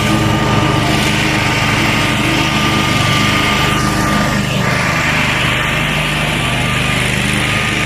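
Zero-turn riding lawn mower's engine running steadily under way, with a brief change in its note about halfway through.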